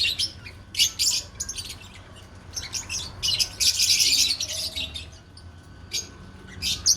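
Lovebirds chirping and chattering: quick, shrill, high-pitched calls in irregular clusters, busiest around the middle of the stretch.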